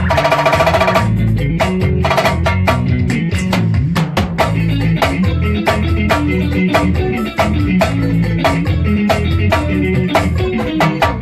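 Band music: a drum kit keeps a fast, steady beat under bass and guitar, with a short held chord in the first second.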